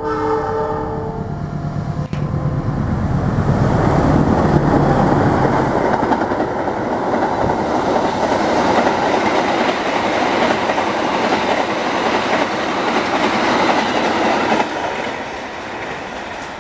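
Indonesian diesel-hauled passenger train passing close by: the locomotive's horn ends about a second in, the engine's low hum goes by, then the coaches roll past with loud, steady wheel noise on the rails, fading near the end as the train moves away.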